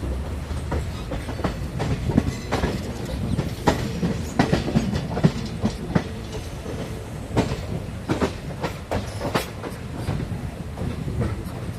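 Jhelum Express passenger train running along the track: wheels clacking and knocking irregularly over rail joints above a steady low rumble.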